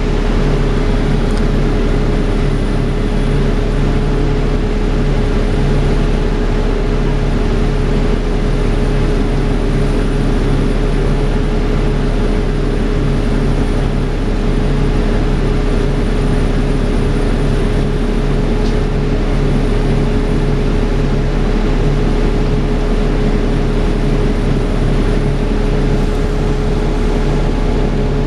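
Dennis Trident 2 double-decker bus running steadily, with an engine hum and a strong steady whine over it, the 'hoovering' sound of its cooling fan.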